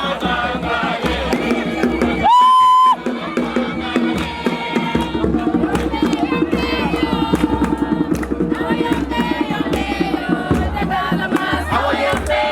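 A crowd singing and chanting together, with sharp percussive beats of clapping or drumming. About two seconds in, one loud steady high tone, likely a whistle or horn blast, cuts across the singing for about half a second.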